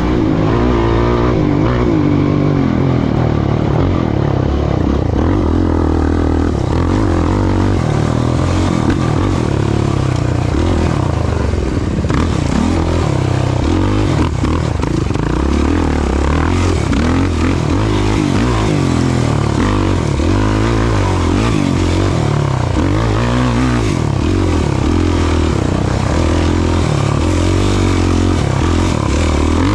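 Off-road racing vehicle's engine running hard under constant throttle changes, its pitch rising and falling again and again as it is revved and eased off.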